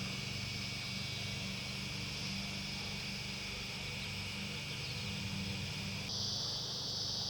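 Cicadas singing in a steady, continuous chorus; about six seconds in the buzz shifts higher in pitch and grows a little louder. A steady low hum sits underneath.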